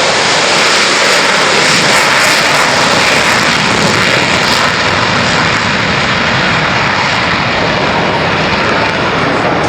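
Loud jet noise from Blue Angels F/A-18E/F Super Hornets flying past. It is strongest about two seconds in and eases a little after the middle.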